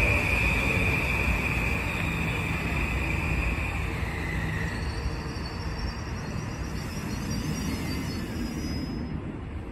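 Metro-North M8 electric multiple-unit train rolling past on the rails, its rumble slowly getting quieter. A steady high-pitched squeal rides over it and fades out about four seconds in.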